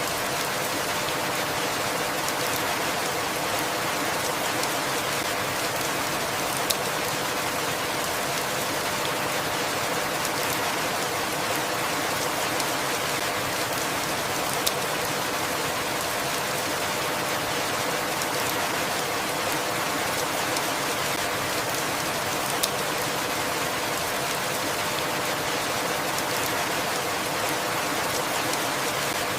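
Steady rainfall: an even hiss of rain, with a few single drops ticking slightly louder.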